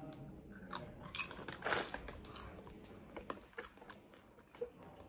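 A person chewing popcorn with irregular crunches, the loudest a little under two seconds in.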